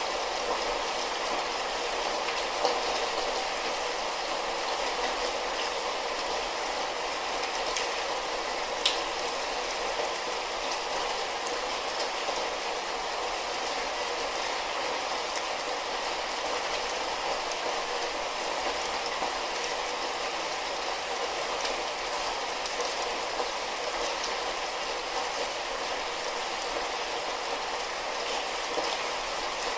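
Light rain falling steadily, an even hiss with a few sharper single drops tapping now and then.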